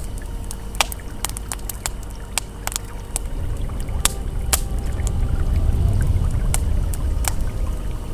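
Campfire crackling with sharp pops scattered throughout, over the low rush of a flowing river that grows louder a little past halfway.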